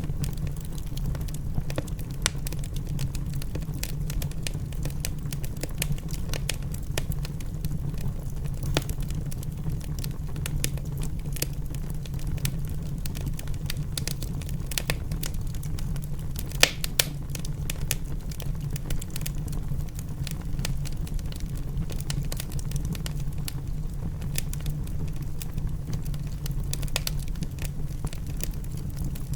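Wood fire in a fireplace crackling, with frequent irregular pops and snaps, a few sharper than the rest, over a steady low rumble.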